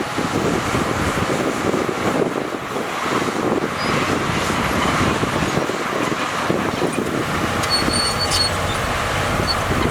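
Shantui bulldozer's diesel engine running under load, mixed with a steady, irregular metallic clatter. A brief high squeal comes about eight seconds in.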